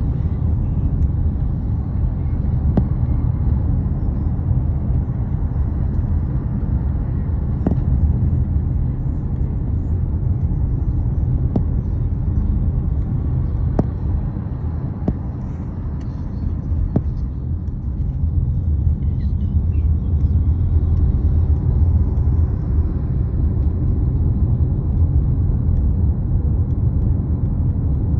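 Steady low rumble of truck engines, with a few sharp clicks scattered through it.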